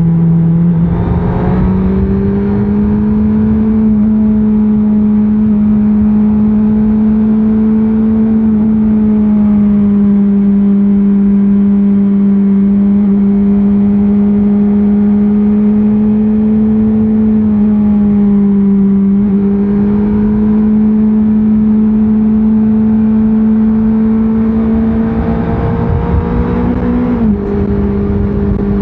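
Stock Honda CBR650R inline-four engine pulling at steady, fairly high revs while riding, with road and wind noise underneath. The engine note dips and recovers once midway. Near the end it rises slightly, then drops suddenly.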